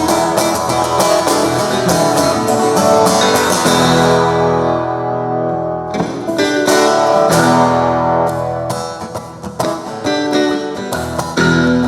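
Guitar playing an instrumental passage of strummed and picked chords. About four seconds in, one chord is left to ring out; fresh strumming starts again around six seconds in.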